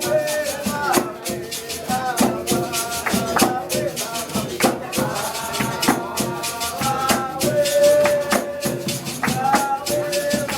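Capoeira music: voices singing held phrases over a steady, rapid shaking rattle percussion.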